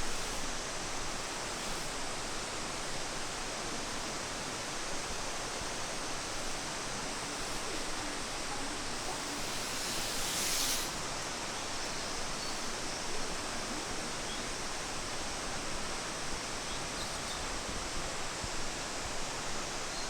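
Steady rush of flowing water, an even hiss without rhythm. About halfway through there is a brief, brighter hiss lasting about a second.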